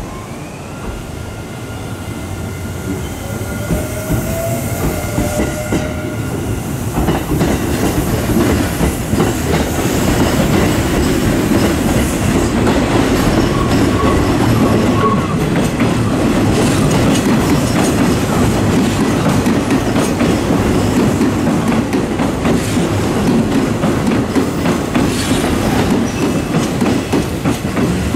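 Electric commuter train running close by, its wheels clattering on the rails. It grows louder over the first ten seconds and then stays loud.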